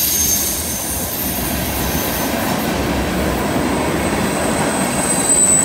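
Train cars rolling steadily through a curve, a steady rumbling from the wheels on the rails. High-pitched wheel flange squeal from the curve fades out over the first couple of seconds, and one thin squeal tone returns near the end.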